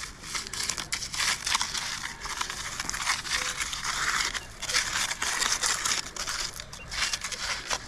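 Irregular crunching and crackling of gravel and sand being dug and scooped to recover a metal detector target.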